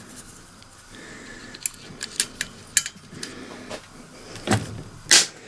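Scattered sharp clicks and light knocks of small metal engine parts being handled while an ignition coil and its earthing strap are fitted, about eight in all, the two loudest near the end.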